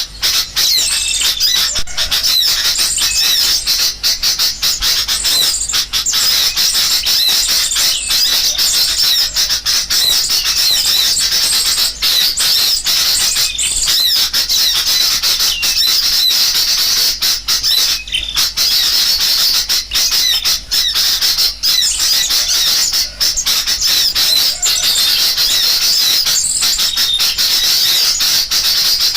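Dense, continuous chorus of sooty-headed bulbuls (kutilang) calling noisily, overlaid with the rapid twittering of many small birds. It is a bird-lure recording meant to draw wild birds in.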